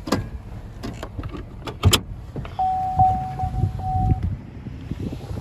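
Clicks and knocks of a 2016 Chevrolet Impala's interior being handled, then a steady electronic warning chime beeping in a few quick repeats for about a second and a half.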